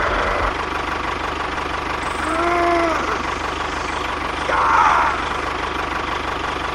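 Small engine running steadily at idle with a fast, even pulse. Two short rising-and-falling voice-like calls sound over it, about two and a half seconds in and again about five seconds in.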